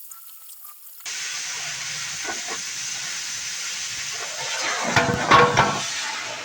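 Oxyacetylene cutting torch blowing its cutting jet through thick steel plate. A steady hiss starts suddenly about a second in, with louder crackling and popping a few seconds later.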